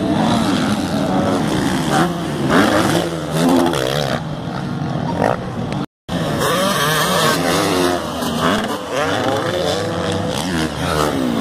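Several motocross bikes revving hard, their engine notes rising and falling and overlapping as they accelerate and shift. The sound cuts out briefly about six seconds in.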